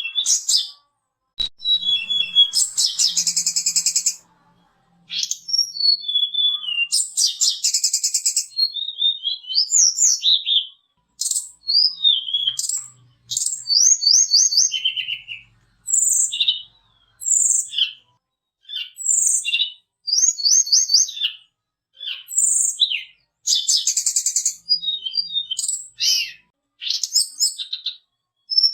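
Tledekan gunung (sulingan gunung) songbird in full, constant song: a fast, varied run of clear whistled notes, slurred up-and-down glides and buzzy trills, in phrases of one to three seconds separated by brief pauses.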